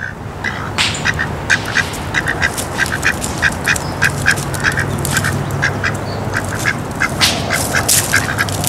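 Ducks quacking repeatedly: many short, quick quacks, several a second, over a steady outdoor background hiss.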